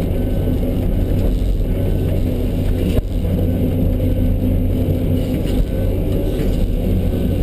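Diesel engine of a John Deere 650D LC running steadily, with one sharp knock about three seconds in.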